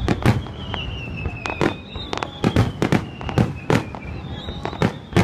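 Aerial fireworks shells bursting in quick, irregular succession: a dozen or more sharp bangs, some with an echoing tail.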